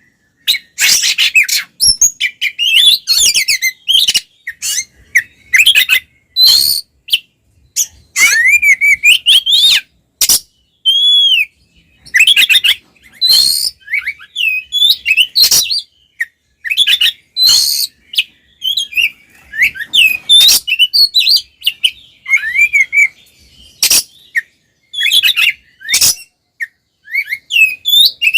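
Oriental magpie-robin (kacer) singing hard in its aggressive fighting song: a fast, varied run of loud sliding whistles, rising and falling, mixed with short harsh rasping notes, in bursts with brief gaps.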